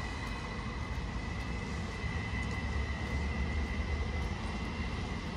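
Electric commuter train moving along a station platform: a steady low rumble with a steady high whine over it.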